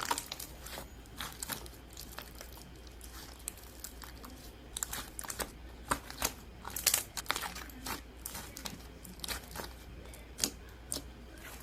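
Slime being squeezed and worked by hand, giving irregular sticky crackles and clicks.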